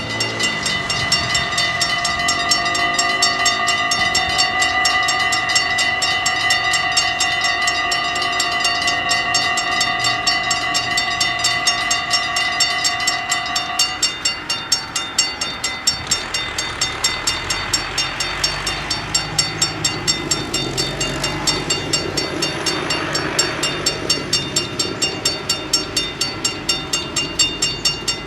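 Level-crossing bells ringing with fast, even strikes while a train sounds a long, steady horn blast that ends about halfway through. The train then runs over the crossing with rolling rail noise as the bells keep ringing.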